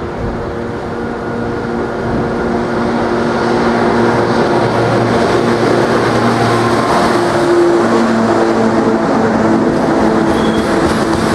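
A British Rail Class 92 electric locomotive hauling a freight train of hopper wagons passes at speed, growing louder over the first few seconds as it approaches and draws level. A steady hum of several tones from the locomotive sits over the rumble of wheels on rail.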